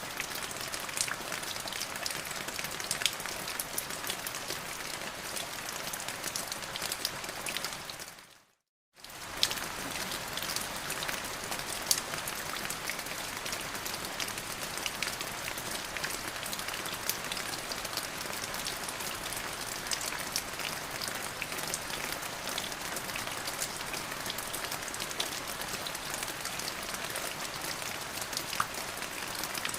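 Steady rain falling, with many sharp ticks of single drops striking a surface. About eight seconds in it fades out to silence for under a second, then comes straight back.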